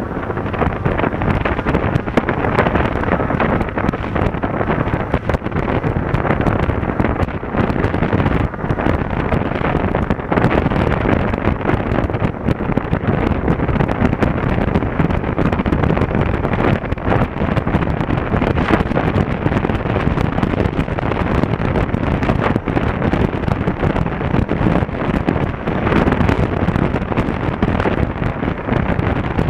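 Wind rushing over an action camera's microphone on a moving motorcycle, steady throughout, with the Honda Africa Twin CRF1000L's parallel-twin engine and road noise running beneath it.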